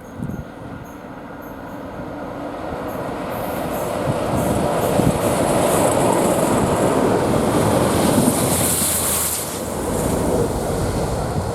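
Train passing on the rails: the rumble of its wheels builds over several seconds, holds at its loudest, then eases slightly, with a high hiss about eight seconds in.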